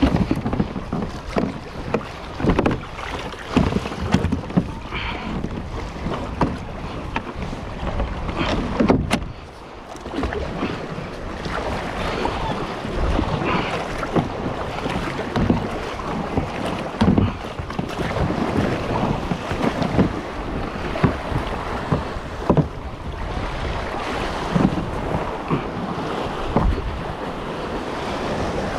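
Wind buffeting the microphone over water slapping and splashing against a kayak's hull, with irregular low thumps; it dips briefly about nine seconds in.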